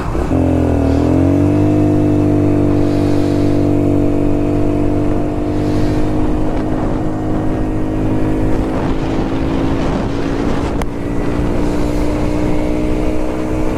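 A vehicle's engine running at speed. Its pitch dips briefly about a second in, then holds steady at high revs, with wind and road noise underneath.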